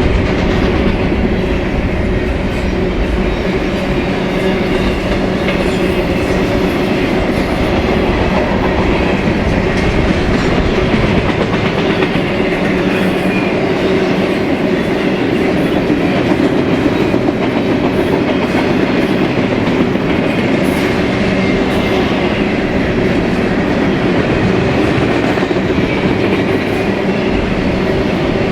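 BNSF freight train's cars rolling past: a loud, steady rumble of steel wheels on rail, with a clickety-clack of wheels over rail joints and a steady hum running through it.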